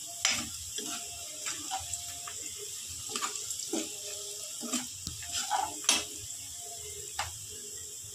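Sliced onions and green chillies sizzling in hot oil in a non-stick wok, a steady hiss, while a metal ladle scrapes and knocks against the pan as they are stirred, with a sharper knock about six seconds in.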